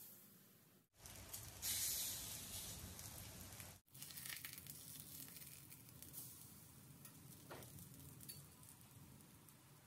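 Besan-batter-coated bread slices sizzling on a hot, lightly oiled tawa griddle. The sizzle is loudest between about one and four seconds in, then settles to a quieter steady sizzle with a few light clicks.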